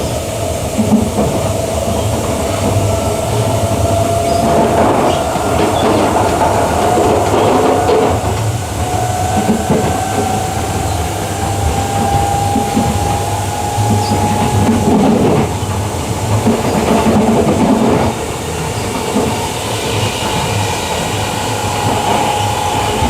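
Queensland Rail EMU electric train running: a steady rumble with a motor whine that slowly rises in pitch, and the wheels clacking over rail joints in a few short runs.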